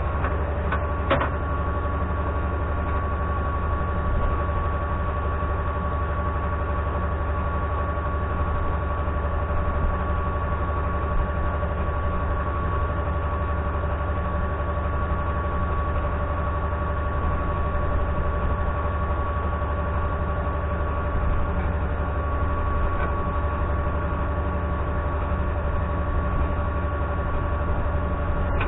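Galion 503 grader's UD-236 diesel engine running at a steady speed while warming up after a cold start: a constant deep rumble with a steady whine on top.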